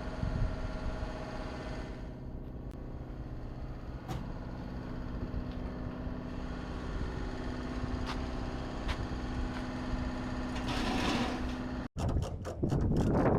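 A machine running with a steady hum and low rumble, broken by a few sharp clicks. Near the end a short hiss, then an abrupt cut to rapid, evenly spaced mechanical clicking.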